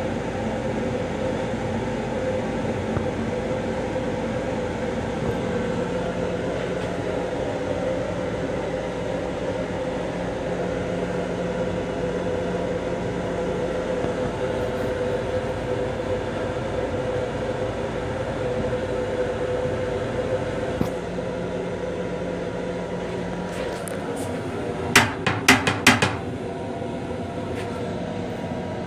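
Long Island Rail Road M7 railcar running, heard from inside its restroom: a steady rumble with a constant hum. About 25 seconds in come four or five sharp knocks in quick succession.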